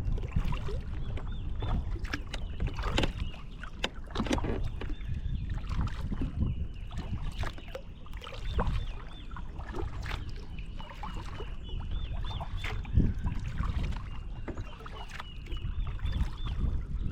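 A kayak being paddled: irregular splashes and knocks of the paddle in the water over a low rumble. A short, high call repeats in the background.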